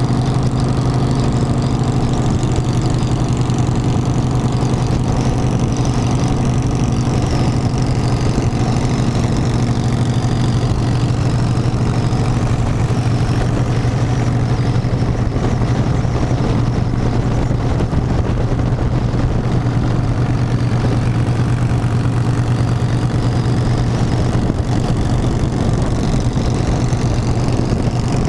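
Harley-Davidson V-twin motorcycle engine running steadily with an even low hum, no change in pitch or level.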